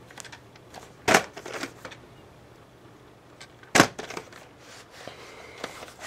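Plastic VHS tape case being handled and opened: a few light taps and two sharp clicks, one about a second in and a louder one just before the four-second mark.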